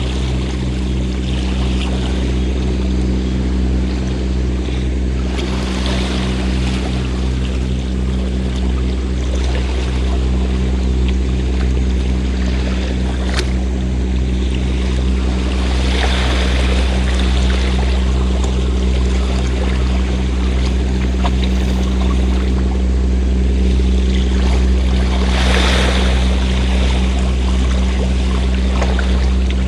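Fishing boat engine running steadily with a low, evenly pulsing hum. Waves wash over it, swelling louder about six, sixteen and twenty-six seconds in.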